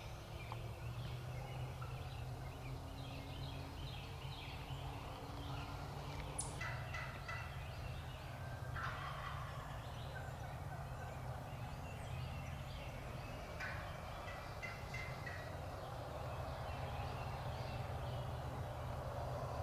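Eastern wild turkey gobbler gobbling several times, about a third of the way in, around the middle and again a little later, with small birds chirping and a steady low rumble underneath.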